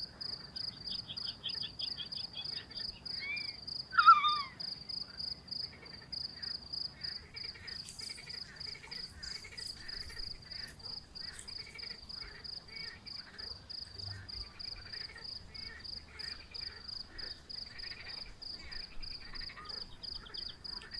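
A cricket chirping steadily, about three chirps a second, with frogs calling over and over in the background. About four seconds in, a single loud call slides sharply down in pitch.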